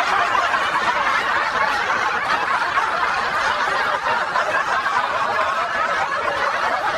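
A crowd of people laughing together, many overlapping laughs and chuckles at an even level, with no single voice standing out.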